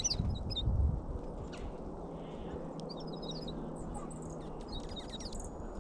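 Small wild songbirds chirping in short, high clusters of calls, at the start and again about three and five seconds in, over a low rumbling that is loudest in the first second.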